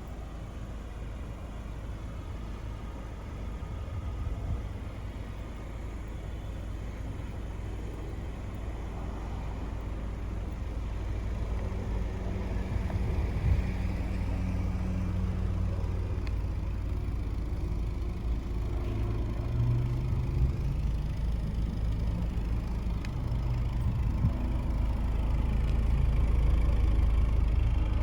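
A 2020 Jaguar XE P300's 2.0-litre turbocharged four-cylinder engine running under way, with a steady low road rumble. The engine note shifts up and down in pitch as the car gains speed, and the sound grows louder toward the end.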